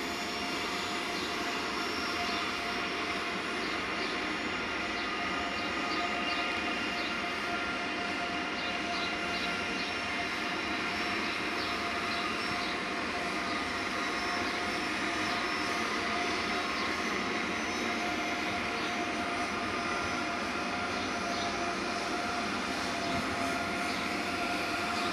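ICE 3 high-speed electric train moving slowly along the platform, giving an even, continuous running sound with a steady high tone from its electric drive over the rolling noise. Faint light clicks come and go during the first half.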